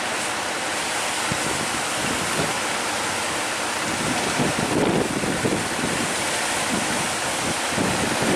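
Strong wind buffeting the microphone in uneven gusts over a steady rush of sea waves and surf.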